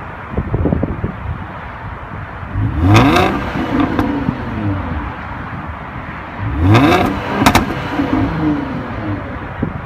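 Car engine accelerating hard twice, about four seconds apart, each time rising in pitch over a steady running noise, with sharp pops or clicks at the peaks.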